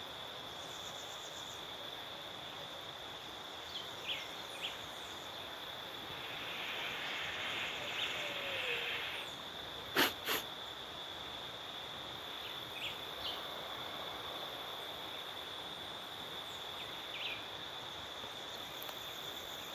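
Steady high-pitched insect chorus with a few short chirps scattered through it. Two sharp clicks close together about ten seconds in, and a brief swell of hiss just before them.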